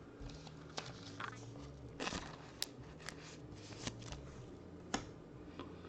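Faint handling noise of trading cards and their plastic holders being moved: scattered light clicks and rustles over a low steady hum.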